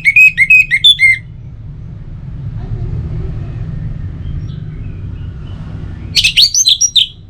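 Orange-headed thrush singing: a fast, loud phrase of repeated whistled notes in the first second, then faint scattered notes, then a second loud phrase about six seconds in. A steady low rumble runs underneath.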